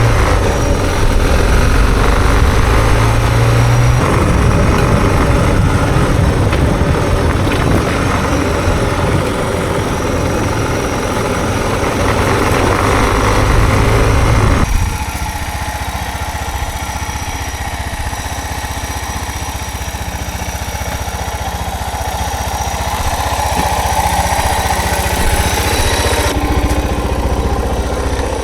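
Suzuki DR650's single-cylinder four-stroke engine running steadily as the bike is ridden. The sound changes abruptly about four seconds in and again about halfway through, where it drops a little in level.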